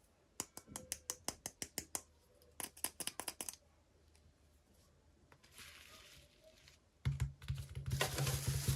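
Small plastic items and packaging being handled. Quick runs of sharp clicks and taps come first, then a short rustle, then louder, faster clicking over a low hum near the end.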